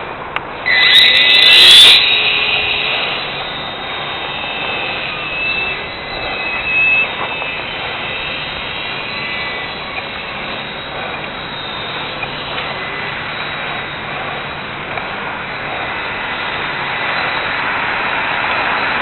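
Flyzone Micro Fokker DR1 RC plane's small electric motor and propeller whining. The motor spins up sharply about a second in, then keeps buzzing with its pitch wandering as the throttle changes in flight.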